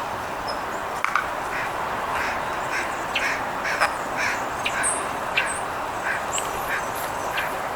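Crows cawing, short harsh calls repeated a few times a second, over a steady background hiss.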